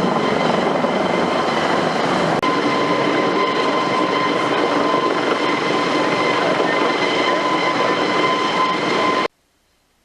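AS365 Dauphin helicopter's twin turboshaft engines and rotors running, a steady loud noise with a high turbine whine. The sound changes slightly after a brief dropout about two seconds in, then cuts off abruptly near the end.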